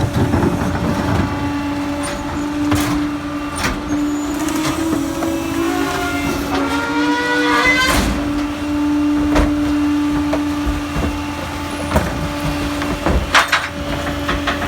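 Pak-Mor rear-loader garbage truck working, with a steady hydraulic hum and the engine revving up, rising in pitch from about four seconds in to about eight seconds in, amid scattered knocks and cracks.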